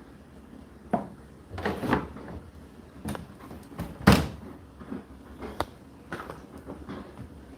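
A series of clicks and clunks from an Indesit condenser tumble dryer being handled, the loudest thump about four seconds in.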